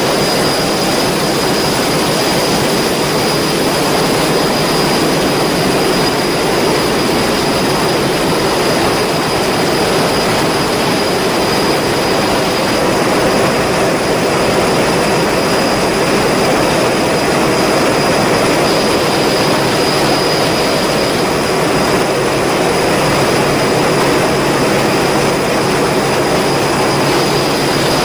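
Heavy ship's machinery running steadily: a loud, even mechanical noise with a thin, constant high whine over it.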